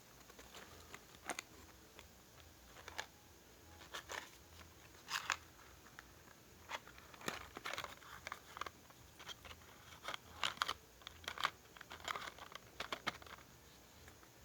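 Irregular light clicks, taps and crinkles of objects being handled, some in quick clusters.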